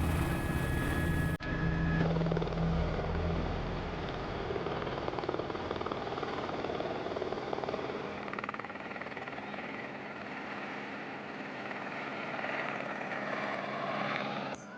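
Helicopter running, its rotor and turbine making a steady rushing noise; a low throb is strong for the first few seconds and then fades.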